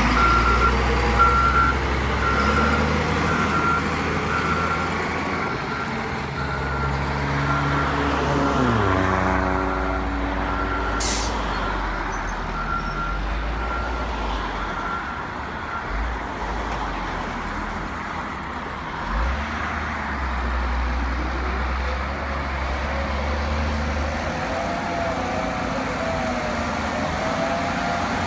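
Diesel engine of a heavy construction vehicle running, with a reversing alarm beeping steadily for about the first half. The engine note drops about eight seconds in, a short sharp hiss comes at about eleven seconds, and a wavering whine rises near the end.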